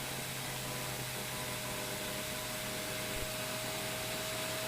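Steady rushing cockpit noise with a thin, steady high whine from the L-29 Delfín's turbojet, heard through the pilot's intercom microphone as the jet enters a split S.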